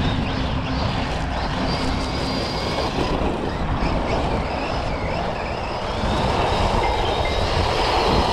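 Losi Lasernut U4 1/10 RC rock racer being driven: its brushless motor whines, rising and falling with the throttle, over a steady rumble and hiss from the drivetrain and tyres.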